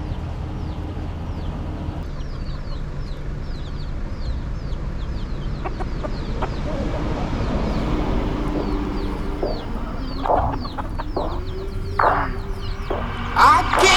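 Chickens clucking, with chicks peeping in rapid, high, descending chirps throughout and a steady low hum underneath; louder calls come about ten and twelve seconds in.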